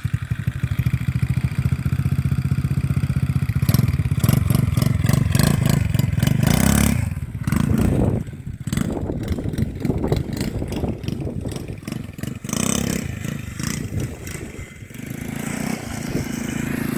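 RC quad bike's small two-stroke engine running and revving up and down as it is driven, loudest from about four to seven seconds in and easing off near the end.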